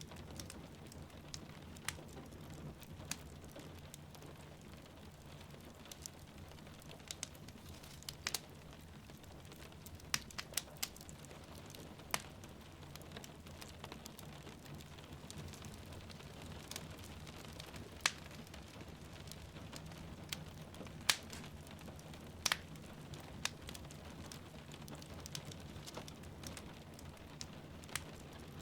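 Wood fire crackling, with irregular sharp pops and snaps, over a steady sound of rain.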